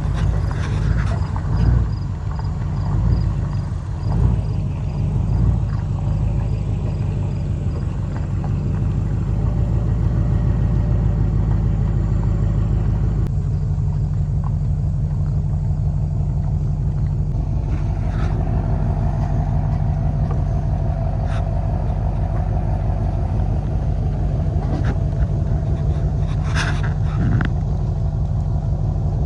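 A motor vehicle running steadily, with a continuous low engine drone and road rumble. A few short knocks come later on.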